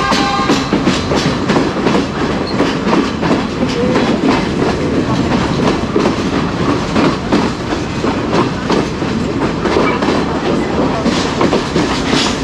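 Passenger train running: a steady loud rumble with the wheels clicking and clacking over the rail joints. A short steady chord of tones ends about half a second in.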